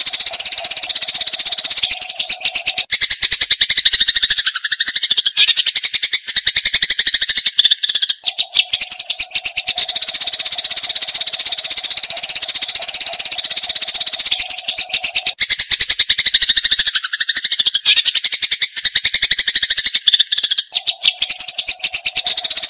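Eurasian tree sparrows in fighting chatter: a loud, rapid, unbroken stream of sharp chirps. A steady low tone runs beneath it and drops out twice for about five seconds.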